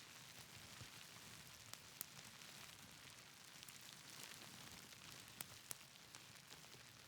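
Faint, steady rain hiss mixed with the scattered sharp pops of a crackling wood fire, the loudest pops about two seconds in and twice more around five and a half seconds.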